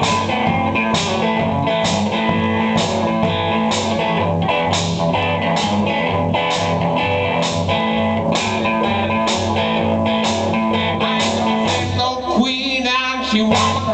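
Live blues-rock band playing: guitar over a steady beat and a repeating bass line. Near the end the bass drops out and a wavering high melody line comes to the front.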